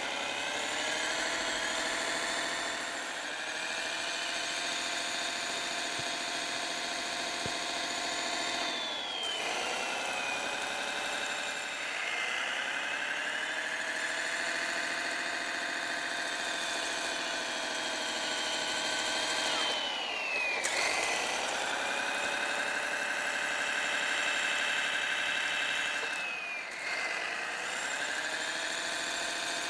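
Radio-controlled Kyosho Blizzard snow groomer model running, its Servonaut SMX sound module playing a simulated engine mixed with the whine of the model's drive. The pitch glides down and climbs back up three times as the model slows and drives on.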